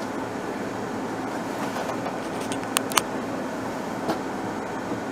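Keikyu Yellow Happy Train running over an elevated railway bridge: a steady rumble, muffled from inside a car, with two sharp clicks close together about three seconds in.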